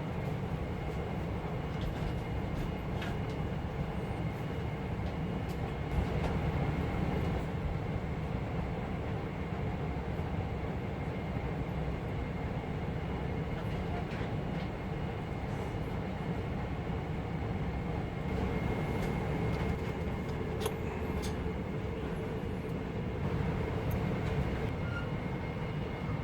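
Steady low rumble and hum inside the cabin of a Boeing 747-400 on the ground, with a faint steady high whine and a few small clicks.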